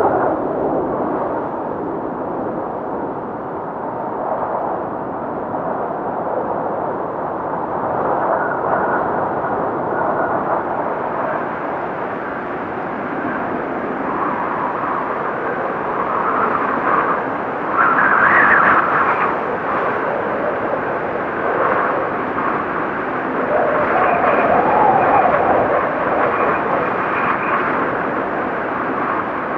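Strong blizzard wind blowing in gusts, a steady rushing that swells and eases, loudest about 18 seconds in and again from about 24 to 27 seconds, when a faint high whistle rides on top of it.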